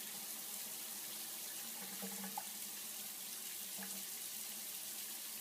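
Faint, steady hissing noise, with a couple of small faint sounds about two seconds in and again near four seconds.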